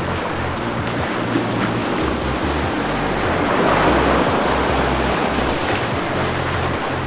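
Sea surf washing onto the beach, one wave swelling loudest about four seconds in, with a low rumble underneath.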